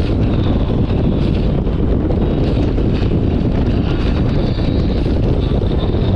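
Steady wind rush buffeting the microphone over the engine and road noise of a motorcycle under way.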